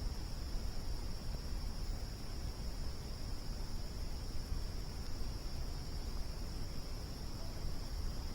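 Crickets chirring in one steady high-pitched chorus over a low, even rumble.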